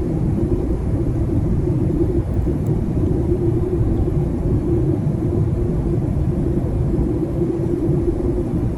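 Jet airliner cabin noise heard from a window seat during the descent: a steady low rumble of engines and airflow with a constant hum running through it.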